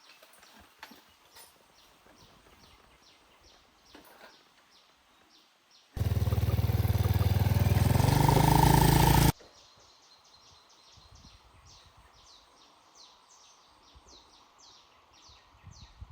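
Regular high chirping, about two or three chirps a second. About six seconds in, a motorbike engine revs loudly with rising pitch for about three seconds, then cuts off abruptly.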